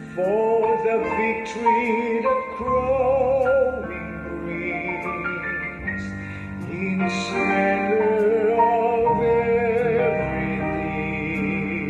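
Music: a solo voice singing with strong vibrato over instrumental accompaniment.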